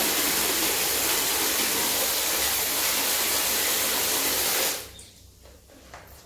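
A steady, even hiss that cuts off abruptly near the end, leaving a much quieter stretch with a few faint ticks.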